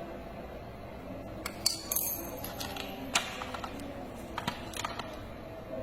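Scattered clicks and a short ringing clink of small hard toy parts being handled and knocked together, over a low steady hum.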